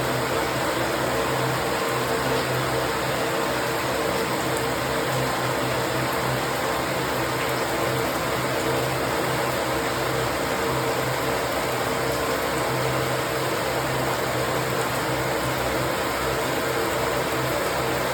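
Steady rain falling, an even continuous hiss with a low steady hum beneath it.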